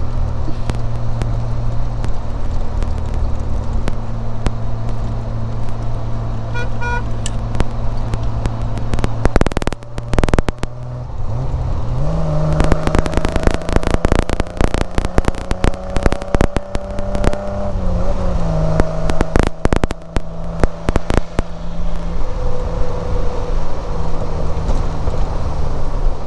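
A Triumph Vitesse 2 Litre's straight-six engine running on the road, with a gear change about ten seconds in, after which the engine note climbs steadily. Wind buffets and crackles on the microphone through the middle.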